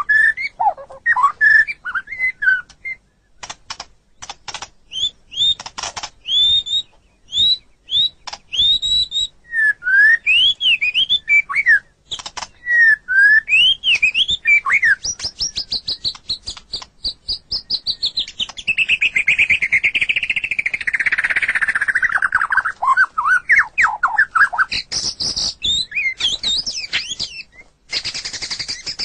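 White-rumped shama (murai batu) singing: a fast run of clear whistled notes and upward-sweeping phrases mixed with sharp clicking chatter. About two-thirds of the way through comes a long rapid trill that falls in pitch.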